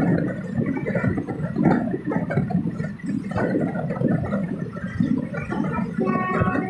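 Running noise of a moving express train: a rough, uneven rumble and rattle. A short pitched tone comes in near the end.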